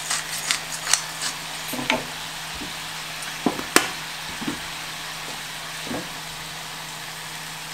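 Chicken, carrots and mushrooms sizzling as they sauté in a frying pan, with quick clicks from a pepper mill being turned in the first second or so and a few light knocks a little later.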